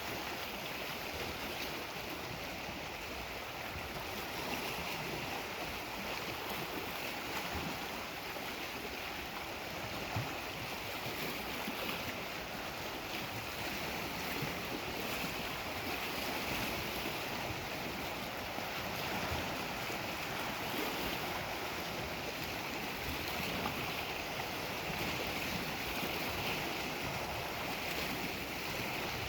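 Lake Superior waves washing steadily on the shore, with some wind noise.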